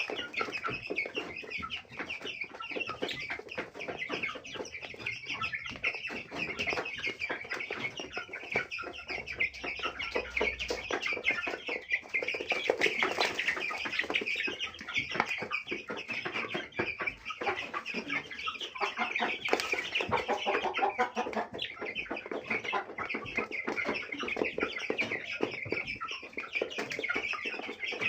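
A flock of Aseel chickens clucking and chattering without a break, many short calls overlapping.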